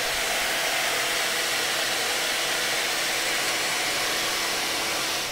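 Electric air-moving cleaning appliance running with a steady rushing hiss of air and a faint motor hum, used to clear dust. It switches off at the very end and winds down.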